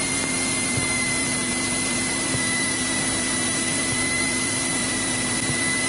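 Steady cabin drone of a Cessna 172's engine and propeller in flight; the engine is a Continental O-300 air-cooled six-cylinder. It is an even rushing noise with a few faint constant tones running through it.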